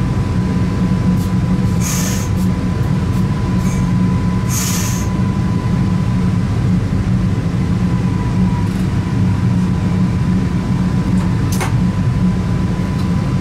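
Electric multiple unit heard from inside the driver's cab while running: a steady low rumble of wheels on track with a faint steady whine. Two brief high-pitched sounds come about 2 and 5 seconds in, and a sharp click comes near the end.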